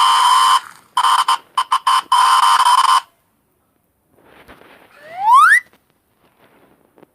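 A steady buzzer tone that breaks into a few short stuttering blasts and cuts off about three seconds in. After a pause and some faint scratching, a single short rising whistle-like squeak sounds.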